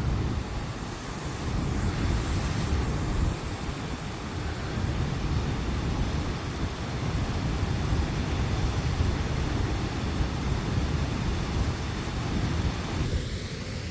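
Low Force waterfall on the River Tees: a steady, heavy rush of fast-flowing water pouring and splashing over the rocks.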